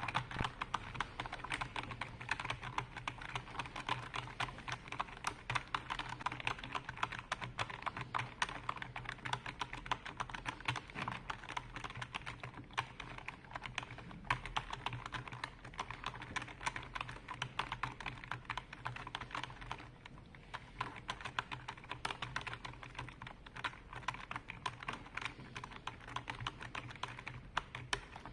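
Computer keyboard being typed on steadily, a fast, continuous run of key clicks with a brief lighter patch in the middle.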